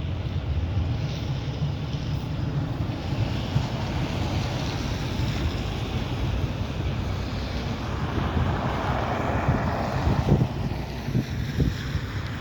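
Street traffic: road vehicles running, with wind rumbling on the microphone. The noise swells louder about eight seconds in, and a few short knocks follow near the end.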